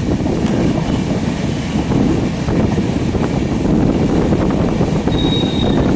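Passenger train running, with steady low rumble and rushing wind on the microphone. A short high tone about five seconds in.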